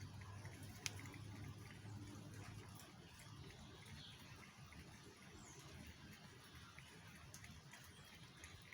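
Near silence: faint ambience with scattered light ticks and one sharper click about a second in.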